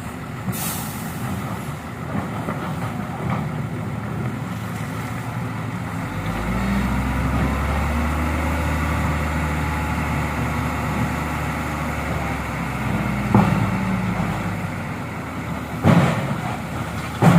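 Diesel truck engine running steadily. For several seconds in the middle it swells into a louder, deeper drone. Near the end come a few sharp knocks or clunks.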